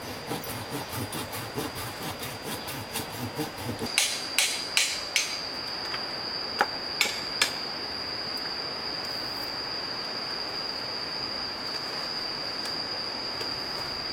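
Wood being struck by hand: a run of quick light taps, then seven sharp knocks in two groups, over steady rushing stream water. A steady high-pitched whine comes in about a third of the way through.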